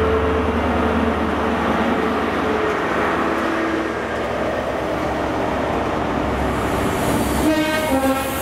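A GWR Class 43 High Speed Train passes along the platform. The power car's diesel engine drones for the first couple of seconds and fades, leaving the steady rumble of the Mark 3 coaches rolling by. Near the end a train horn sounds two short notes, high then low.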